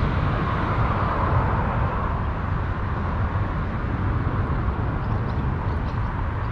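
Steady rumble of road traffic from a nearby highway, a constant noise with no breaks or distinct passes.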